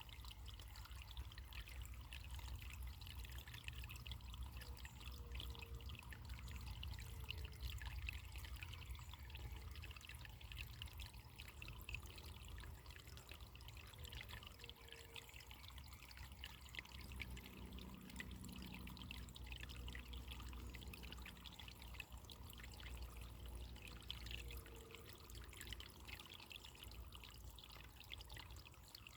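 Running water trickling steadily, with a low rumble underneath.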